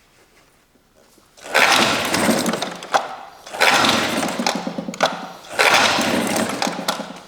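Three pull-starts of a 1986 Mercury outboard's recoil starter rope, each about a second and a half to two seconds of rope whirr and the engine cranking over. The engine does not catch and run between pulls: a hard-starting motor, which the owner blames on fuel delivery and fears has been given too much gas.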